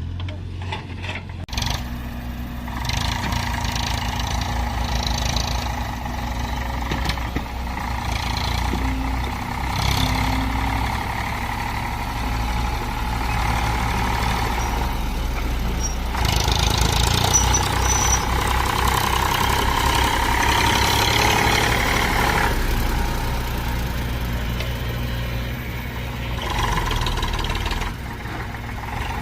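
Diesel tractor engine running continuously. It grows louder about a second and a half in, is loudest for a stretch in the middle, and eases off near the end.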